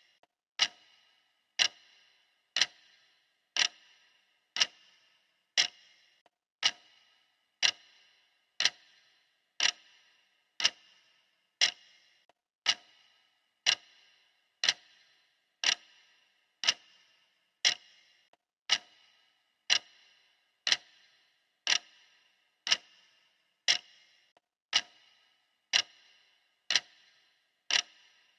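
Steady clock ticking, one sharp tick each second.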